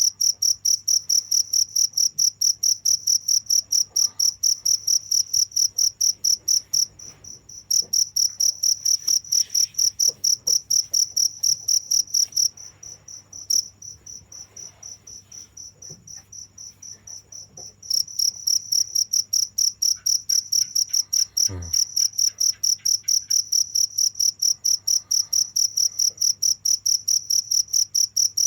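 Crickets chirping: a high-pitched, rapid, even pulse of chirps. The loudest cricket stops briefly about a quarter of the way in and again for about five seconds near the middle, while a fainter one keeps chirping.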